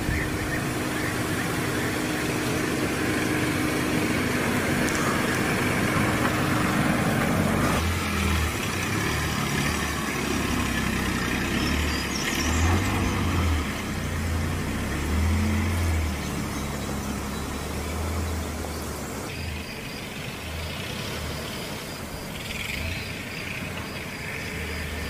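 A 2024 Dacia Duster 4x4 driving slowly off-road on a dirt track: engine running with tyre noise, its note rising and falling. The sound changes abruptly about eight seconds in and again near the end.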